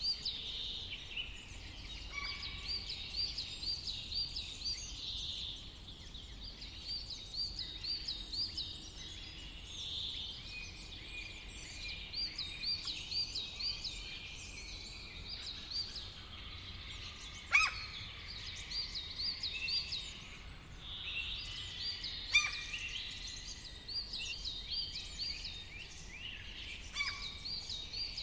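Several songbirds singing in a summer forest, with repeated rapid runs of high chirping notes overlapping one another. Two sharp clicks stand out, one a little past the middle and one later.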